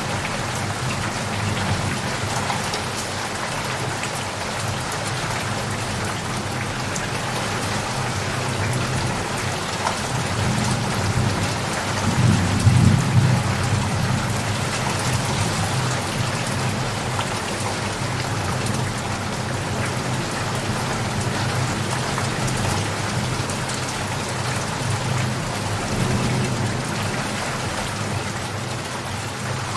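Steady rain falling, with a low rumble of distant thunder that swells to its loudest a little under halfway through and then fades back.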